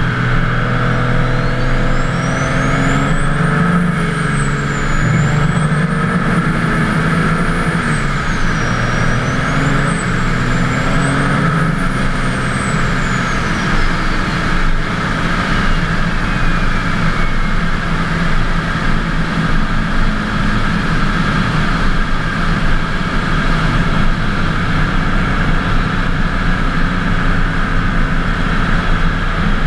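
Twin-turbocharged 24-valve Cummins straight-six diesel running loudly under way, its engine note shifting then settling. A high turbo whistle rises and falls several times with the throttle, then glides down and fades a little past halfway.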